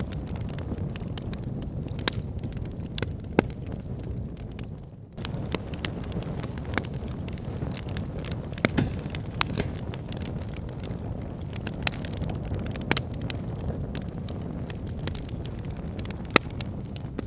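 Bonfire burning, wood crackling with sharp pops scattered irregularly over a steady low rumble.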